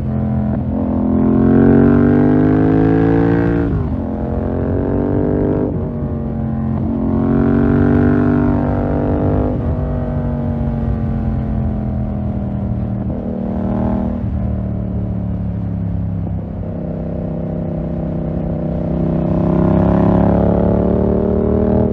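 2020 Yamaha MT-07's 689 cc parallel-twin engine through a full SC-Project 2-1 exhaust, on the move. It rises in pitch under acceleration about four times, and each pull drops away suddenly as the throttle is closed or a gear is changed.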